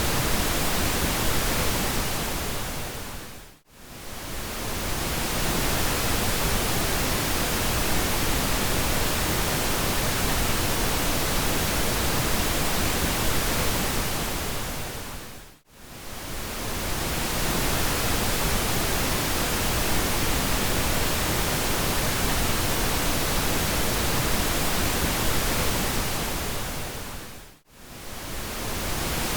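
Steady synthetic pink noise, a smooth even hiss. It fades briefly almost to nothing and straight back up three times, about every twelve seconds.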